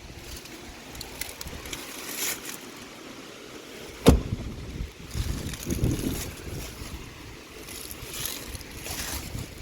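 Wind rumbling on the microphone with some handling and rustling noise, and one sharp knock about four seconds in, followed by a few softer thumps.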